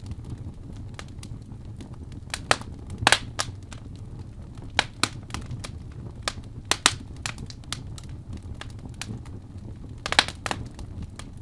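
Wood fire burning in a fireplace, crackling with irregular sharp pops, the loudest about three seconds in and again near the end, over a low steady rumble of the flames.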